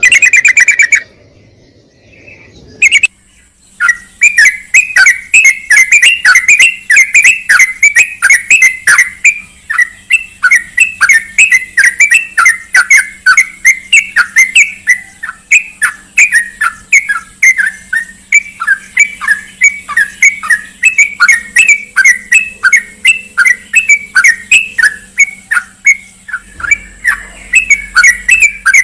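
Yellow-vented bulbul (trucukan) calling: a brief burst of chirps, a pause of a few seconds, then a long unbroken run of quick, loud chirps, about two to three a second.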